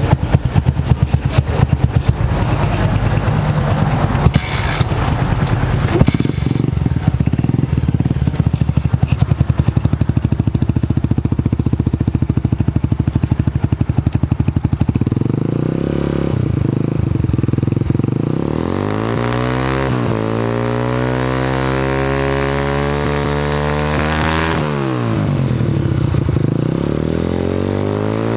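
Honda CG125 single-cylinder four-stroke motorcycle engine running through a newly fitted aftermarket sports exhaust for a sound check. For about the first half it idles with a rapid, even exhaust beat; after that the engine speed rises and falls several times.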